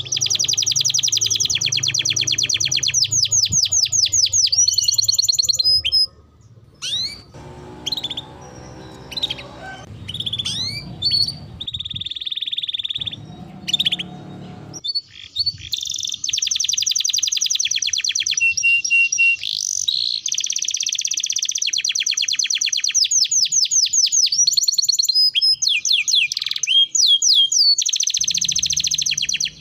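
Domestic canary singing long runs of rapid trills and chirps. It breaks into scattered short chirps about six seconds in, then goes back to sustained trilling.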